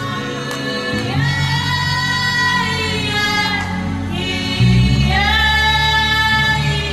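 A man humming and singing a slow worship melody in long held notes, each sliding up into the note, about a second in and again near the five-second mark, over steady low sustained backing chords.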